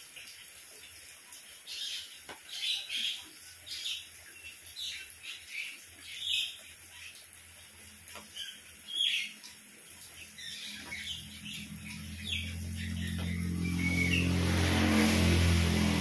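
Songbirds chirping in quick, short calls over a faint steady hiss of rain. Over the last few seconds a low humming drone with a rising hiss swells and becomes the loudest sound, peaking near the end.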